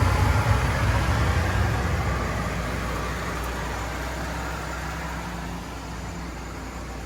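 A 1998 Suzuki Carry kei truck's small three-cylinder engine running, louder for the first two seconds and then easing down to a steadier, quieter hum.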